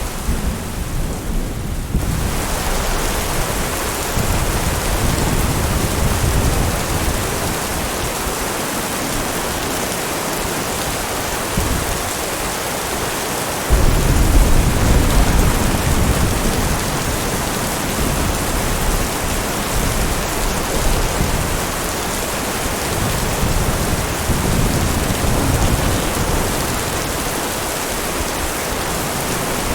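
Steady heavy rain with rumbling thunder; a louder roll of thunder breaks in suddenly about 14 seconds in.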